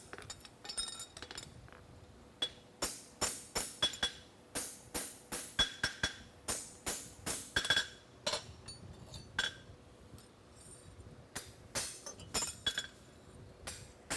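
Farrier's hammer striking a steel horseshoe on the anvil: a steady run of sharp, ringing metal blows, about two or three a second, with a short break about ten seconds in.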